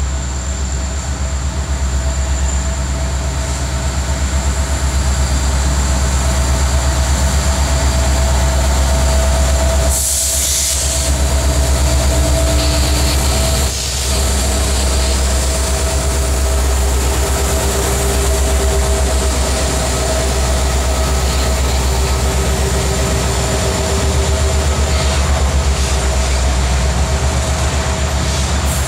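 Canadian Pacific diesel freight locomotives passing close by with a loud, steady low engine rumble, followed by freight cars rolling past on the rails. A brief hiss comes about ten seconds in.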